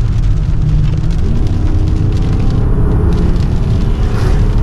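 2013 Dodge Charger R/T's 5.7-litre Hemi V8 running under load, heard from inside the cabin, its pitch rising about a second in and then holding steady.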